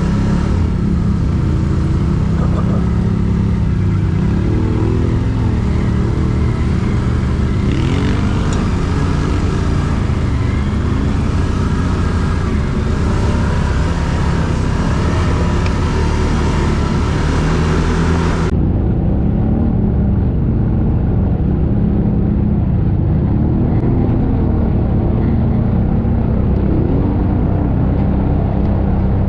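ATV engine running continuously, its revs rising and falling a little as it rides. About two-thirds of the way through, the sound abruptly turns duller as its upper range drops away.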